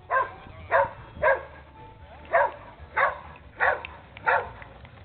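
A dog barking repeatedly: seven short barks, three in quick succession, then after a pause of about a second, four more.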